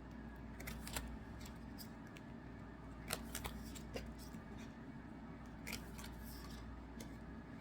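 Light, scattered clicks and soft rustles of trading cards being handled and sorted by hand, over a low steady hum.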